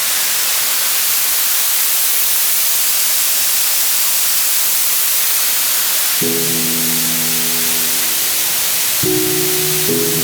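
Waterfall rushing: a loud, steady hiss of falling water. About six seconds in, sustained music chords come in over it and change every second or two.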